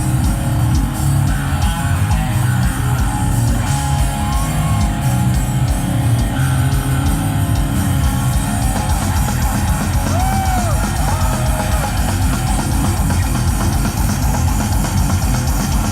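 A live rock band playing loudly: electric guitars over a drum kit, steady throughout.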